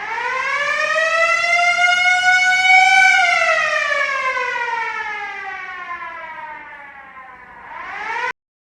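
A wailing siren: a single tone that rises for about three seconds, falls slowly for about four, begins to rise again, then cuts off abruptly near the end.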